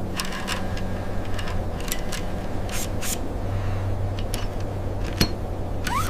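Scattered clicks and light taps over a steady low hum, with a short rising chirp near the end.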